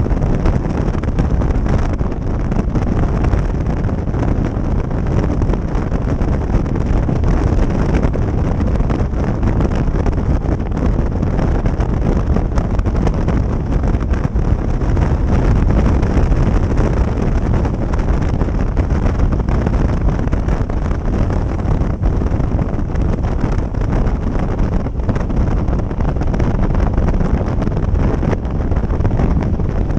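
Steady wind rush buffeting the microphone on a moving motorcycle, with the motorcycle's engine and road noise mixed in underneath.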